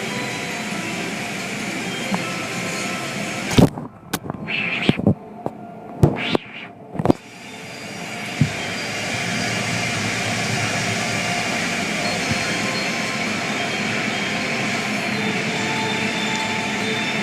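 Steady running noise of automatic car wash machinery. About four seconds in it drops away briefly, with several sharp knocks, then comes back up and runs on steadily.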